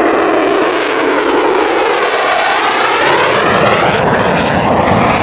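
Airplane flying low overhead, a loud, steady engine rush with a hollow, sweeping tone that dips and rises again as it passes.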